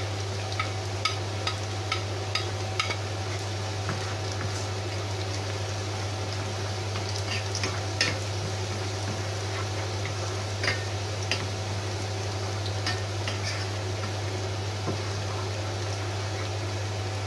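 Chopped onion and garlic sizzling in hot oil in a frying pan while a wooden spoon stirs them, with scattered light taps and scrapes of the spoon against the pan. A steady low hum runs underneath.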